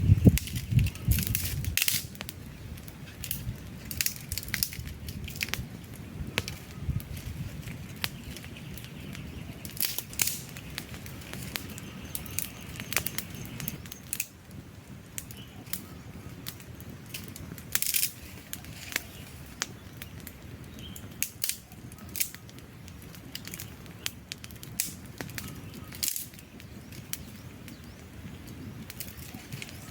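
Wood fire crackling, with irregular sharp pops of burning logs over a soft, low rush of flame. A louder low rumble in the first two seconds stops suddenly.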